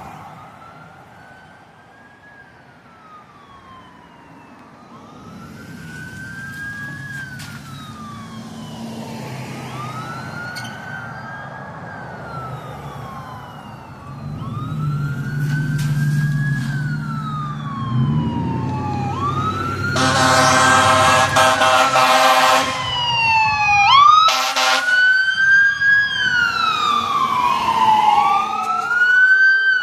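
Emergency vehicle sirens wailing, rising and falling in pitch every three seconds or so and growing steadily louder as the responding fire apparatus approach. A heavy engine drone passes about halfway through, long horn blasts sound about two-thirds of the way in, and in the last few seconds two sirens overlap.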